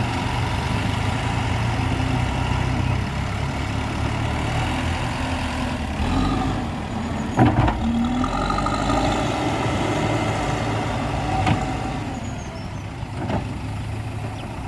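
Diesel engine of an earthmoving machine running steadily, with a few sharp knocks, the loudest about halfway through and two more near the end.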